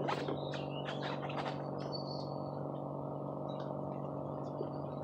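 Birds chirping, with a quick run of calls in the first second and a half and a few more later, over a steady low hum.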